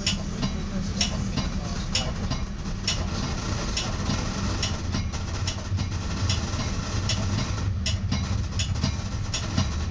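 Metra commuter train heard from inside its cab car: a steady low rumble with frequent sharp clicks and rattles.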